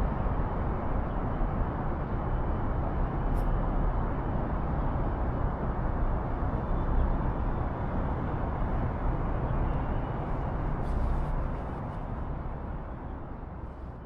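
Steady rumble of city traffic with general street noise, fading out near the end.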